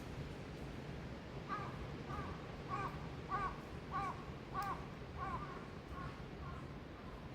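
A crow cawing: a run of about ten caws, roughly 0.6 s apart, starting about a second and a half in and fading toward the end, over a steady low background noise.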